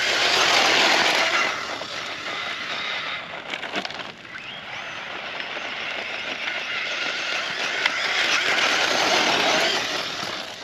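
Brushless electric motor of a Losi RC truck whining at speed as the truck drives through sand, with the tyres throwing sand. It is loudest in the first second or so, drops away, then swells again over the last few seconds.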